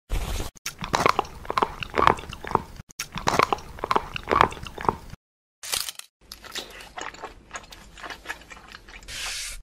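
Mukbang eating sounds: crisp, crunchy bites and chewing in quick runs, pausing about halfway, with a short hiss near the end.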